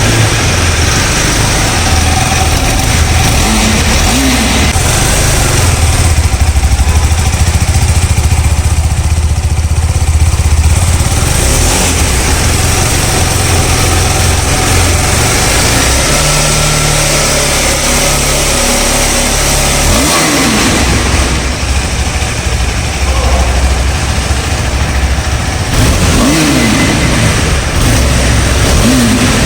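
KTM 390 Adventure's 373cc single-cylinder engine idling, its exhaust note loud and steady, with several short throttle blips that rise and fall, a few of them close together near the end.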